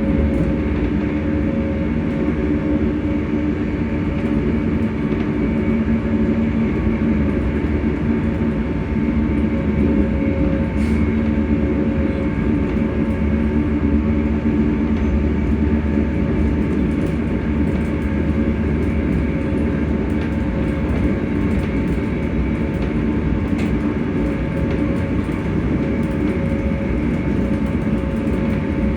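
ScotRail Class 385 electric multiple unit's traction motors humming over the rumble of the running gear, several tones holding a steady pitch, as at a constant speed.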